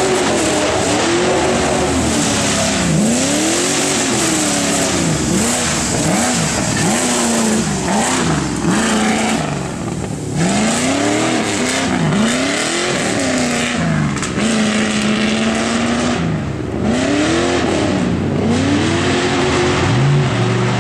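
4x4 pickup truck's engine revving hard on an off-road course, the pitch rising and falling again and again every second or two as the throttle is worked, with a constant rushing noise over it.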